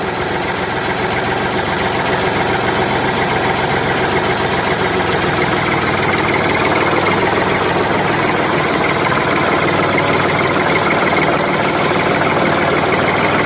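A motor running steadily at an even pace, loud and unchanging.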